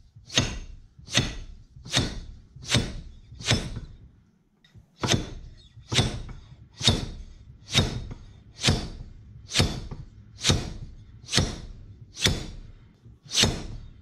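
Repeated heavy metal clanks, about one a second with a short pause about four seconds in, as the piston of a John Deere 4400 bucket hydraulic cylinder is slammed against the cylinder head to knock the head loose.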